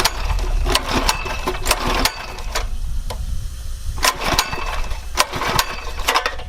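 Small pull-start gasoline engine being cranked again and again by its recoil cord, turning over in short strokes without catching.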